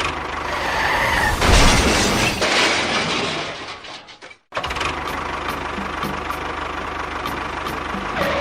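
Machine running noise from small engines or motors, louder and rougher for about a second and a half near the start, cut off abruptly about four seconds in and then running steadily again.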